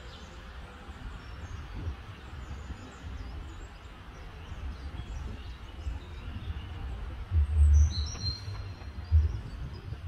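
Small birds chirping faintly over steady outdoor background noise, with a brief run of high chirps near the end. Low rumbling bumps also come near the end.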